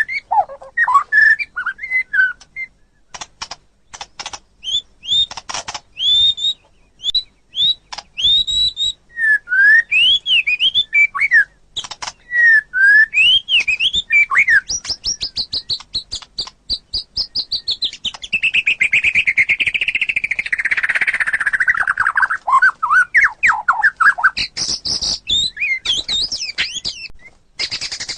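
White-rumped shama (murai batu) singing a varied song. Clear whistled notes slur up and down between sharp clicking notes, and past the middle a long, fast run of notes sinks in pitch and breaks into rapid warbling.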